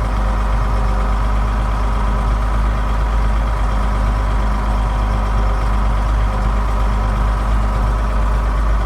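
Case 5140 tractor's Cummins 5.9 diesel engine running steadily at an even, unchanging speed.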